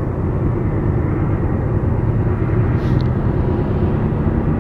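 Train passing with a steady, loud low rumble, and a brief high-pitched squeal about three seconds in.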